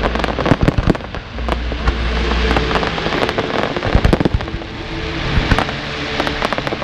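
Fireworks display going off: a dense, continuous string of bangs and crackling pops from aerial shells.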